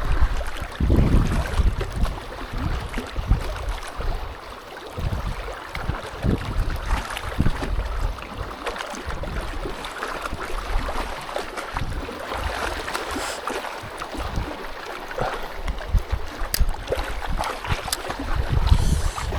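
Strong wind buffeting the microphone in irregular low rumbling gusts, the strongest about a second in and near the end, over a steady hiss.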